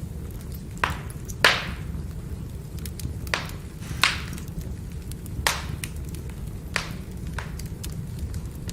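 Firewood burning with a steady low rumble and sharp crackling pops, about seven in all, the loudest about a second and a half in.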